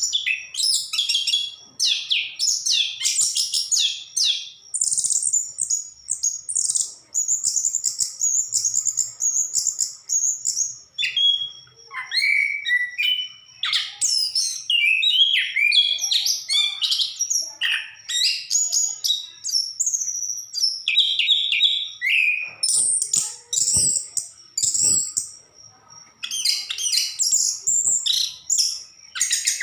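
Chestnut-capped thrush (anis kembang) in full song, pouring out a rapid, varied run of high phrases almost without a break, with a brief lull near the end.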